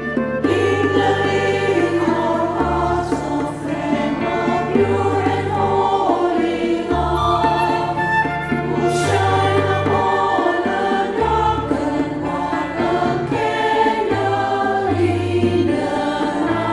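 Women's choir of sopranos and altos singing a gospel song in parts, over an accompaniment of held bass notes that change every second or two.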